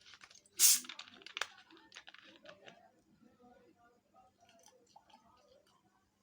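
Close-up eating sounds: a loud crunchy bite about half a second in, then a couple of seconds of crisp chewing that gradually quietens.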